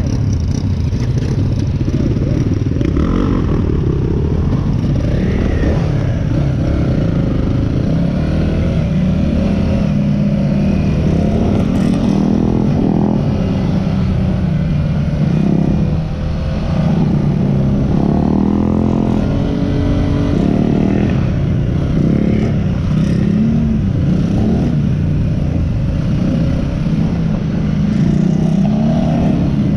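Yamaha WR250R's single-cylinder four-stroke engine running under way, heard from on the bike, its pitch rising and falling with the throttle and gear changes, with a brief dip in loudness about halfway through.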